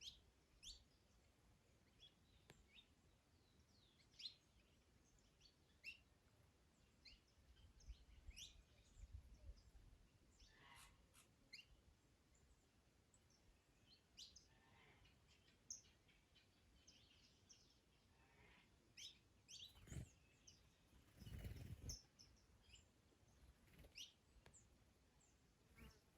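Garden birds chirping faintly: short, high calls scattered irregularly over a quiet background. Around twenty seconds in there are two brief low rumbles.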